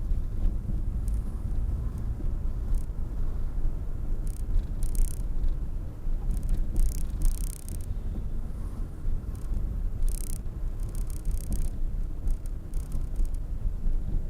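Steady low rumble of a car, picked up by a dash cam, with several short bursts of high hiss a few seconds apart.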